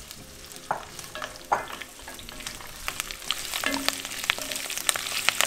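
Chopped onions and scallions sizzling in hot oil in an enameled cast-iron Dutch oven as a wooden spoon stirs them, with many sharp clicks. The sizzle grows louder about halfway through.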